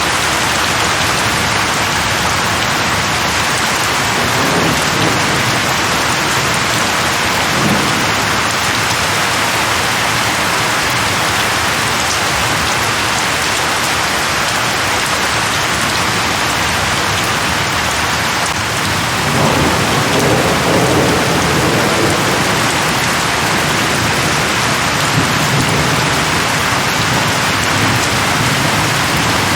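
Heavy steady rain pouring, with rolls of distant thunder rumbling low in the background, the strongest starting a little past halfway through.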